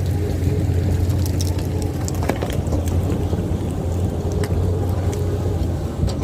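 Caterpillar crawler bulldozer's diesel engine running steadily under work, a deep steady hum, with scattered short knocks and rattles.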